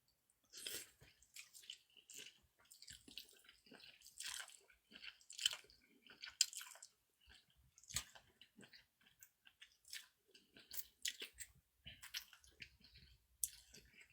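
Quiet, close-up chewing and wet mouth sounds of someone eating mul-naengmyeon cold noodles in broth, as a run of short, irregular smacks and squishes.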